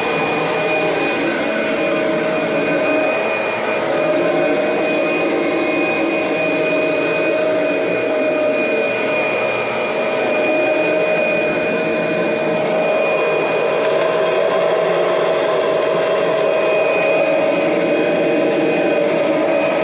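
Kirby Generation 3 upright vacuum running steadily with an even whine, vacuuming a throw rug in neutral with its brush roll disengaged.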